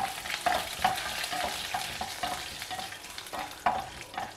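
Groundnuts, dals and curry leaves frying in ghee in a kadai, sizzling while a wooden spatula scrapes and stirs them about three strokes a second: the groundnuts are being roasted for a South Indian tempering.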